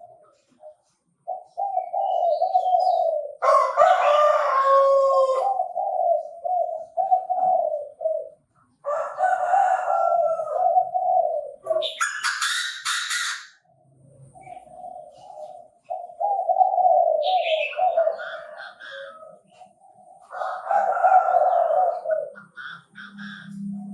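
Chinese francolin calling, a series of loud, harsh repeated phrases broken by short pauses, with a few brighter, higher-pitched stretches among them.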